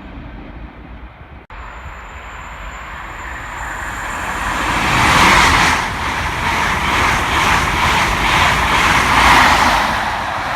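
High Speed Train (Class 43 power cars 43043 and 43076 with a full East Midlands Trains set) passing at speed, its noise building to a peak about five seconds in and staying loud with a rapid regular beat of wheels over the rails, then easing near the end.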